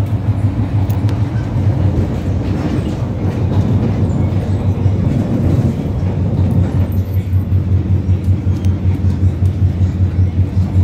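Disneyland Resort Line electric train under way: a steady low running hum with rail noise from the wheels. About halfway through the loudness starts to pulse evenly, several beats a second.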